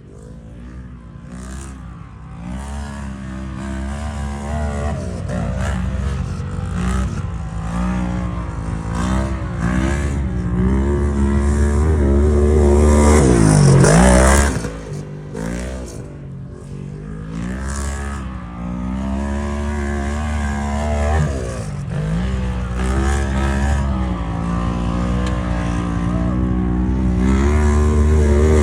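A side-by-side UTV engine running hard around a dirt track, its pitch rising and falling over and over as the driver works the throttle through the turns. It gets louder and passes close about halfway through, with a sharp drop in pitch and level, then builds again as it comes back around near the end.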